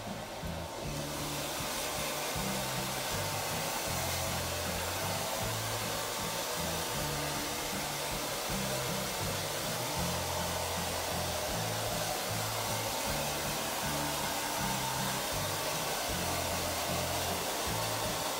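Hand-held hair dryer blowing steadily to dry a wet beagle's coat, over background music with a stepping bass line.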